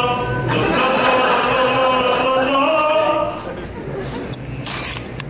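A person singing a few long held notes, the pitch shifting slowly between them; the singing stops about three seconds in. A few faint clicks follow near the end.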